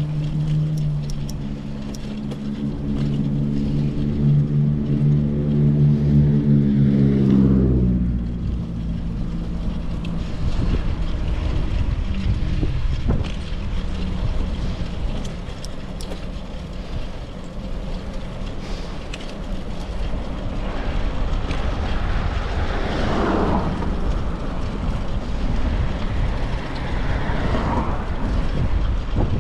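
A passing motor vehicle's engine hum, a steady low tone with overtones that dips in pitch and fades about eight seconds in. After that comes steady low road and wind noise from the ride, with two more vehicles swishing past near the end.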